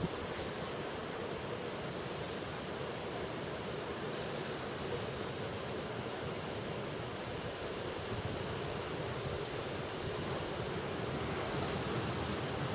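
Steady rushing noise of typhoon wind and weather, with a thin high-pitched whine held throughout.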